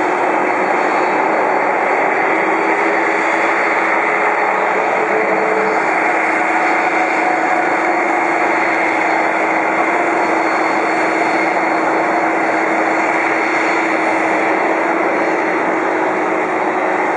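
Boeing 747-400 freighter's jet engines running steadily: an even roar with a steady whine over it, as the aircraft lines up on the runway.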